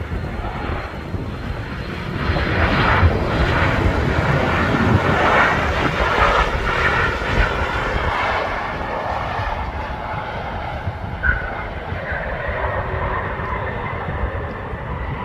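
Airliner's jet engines running as the plane passes, building to their loudest between about two and nine seconds in, then easing. Strong wind buffets the microphone.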